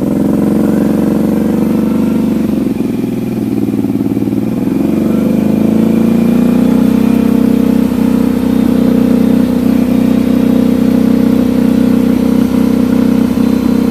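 Four-wheeler (ATV) engine running while riding. Its pitch sags about three to four seconds in, then climbs back and holds steady.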